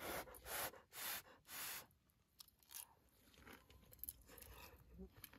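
A person biting and chewing food, faint and close: four short bites in the first two seconds, then quieter chewing.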